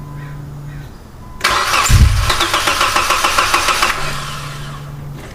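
Car's starter motor cranking the engine in a rapid, even rhythm for about two and a half seconds, then stopping without the engine catching: a no-start. A steady low hum is heard before and after the cranking.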